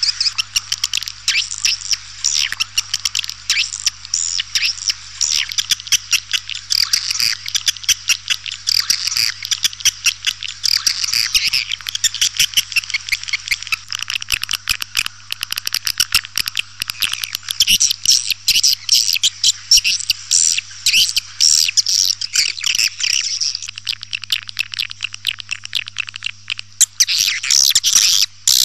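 Swiftlet lure-call recording: dense, continuous twittering and rapid chirps of edible-nest swiftlets, the kind played from a swiftlet house to draw birds in. A steady low hum runs underneath.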